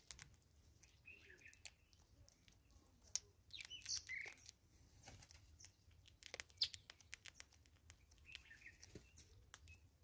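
Faint chirps of birds at intervals, with many scattered light clicks and taps.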